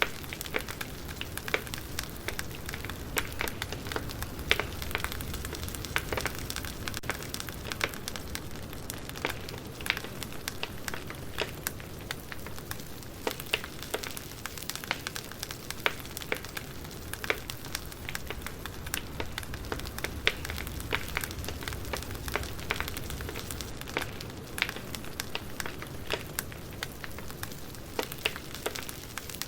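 Wood fire crackling: a steady low hiss and rumble with irregular sharp pops and snaps throughout.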